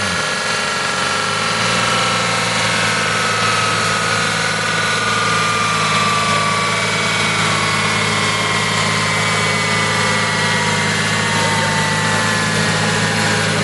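Nissan 200SX drift car's engine on a rolling-road dyno: its revs drop sharply at the start and settle into a steady idle. A high whine above it slowly falls in pitch.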